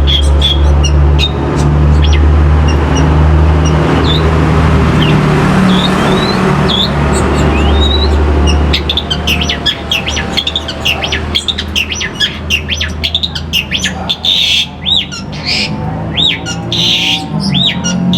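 A long-tailed shrike (pentet) sings short sharp chirps and slurred whistles, which become a rapid run of repeated sweeping notes in the second half. A steady low engine hum runs underneath.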